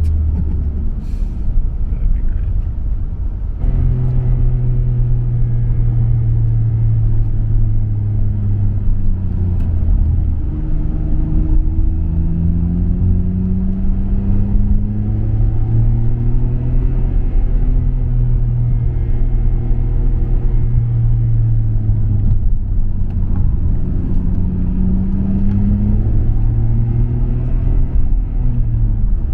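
Nissan Skyline R34 GT-R's RB26DETT twin-turbo straight-six with a MINES exhaust, driving under load. It gets louder a few seconds in, and its pitch rises twice as the car accelerates.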